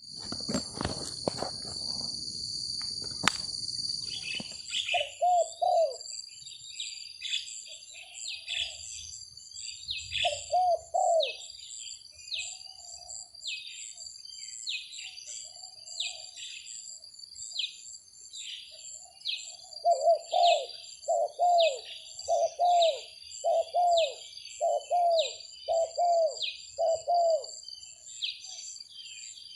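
Spotted doves cooing in short repeated phrases, with a run of calls in the second half. A high chirp from another bird repeats about once a second and a steady high insect drone runs underneath; knocks and handling rumble fill the first four seconds.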